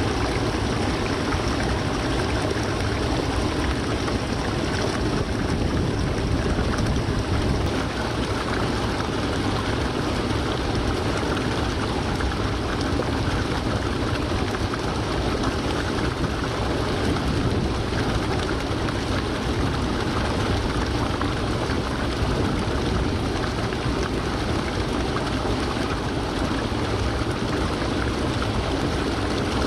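Waterfall: the steady, unbroken rush of water falling and splashing.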